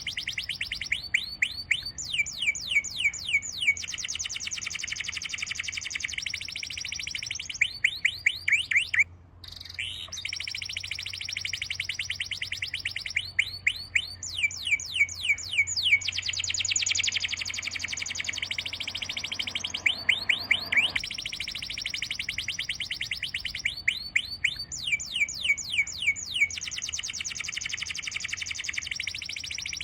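Birds chirping in fast, repeated trains of short high chirps, one train following another with little pause, with a brief gap about nine seconds in.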